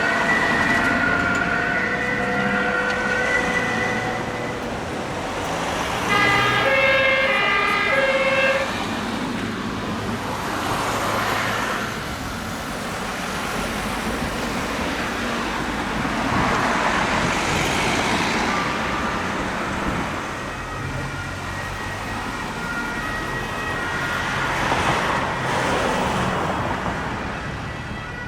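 German two-tone emergency sirens (Martinshorn) of fire and rescue vehicles on an emergency run, alternating between two pitches. A horn sounds twice about seven seconds in, and the noise of vehicles driving past swells three times later on.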